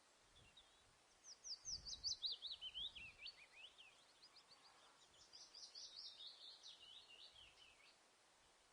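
A bird singing two fast runs of high chirping notes: the first, about a second in, steps down in pitch over two and a half seconds; the second, softer, follows about five seconds in.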